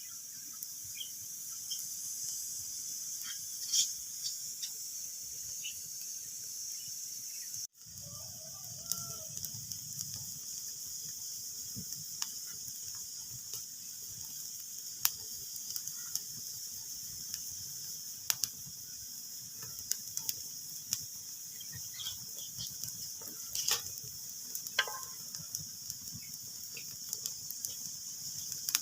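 Wood fire crackling, with many sharp irregular pops over a steady hiss. The sound cuts out for an instant about eight seconds in, then carries on as before.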